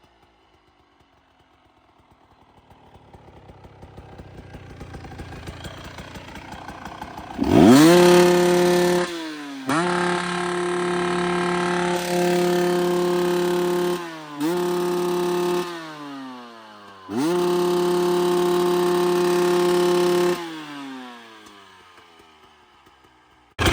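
The 300 cc two-stroke engine of a LAWCR LC300X dirt bike, at first faint and rising, then run wide open at a high, steady pitch. It is held there four times for one to four seconds each, and the revs fall away between the holds and again near the end.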